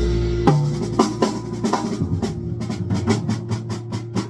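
Music: a drum kit playing over sustained low bass notes, with a run of quick drum hits in the second half.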